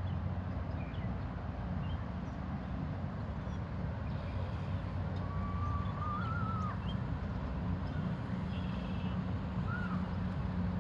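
Steady low hum, like distant traffic or an engine, with birds calling over it: a drawn-out whistle that wavers at its end about halfway through, then a short trill and another brief call near the end.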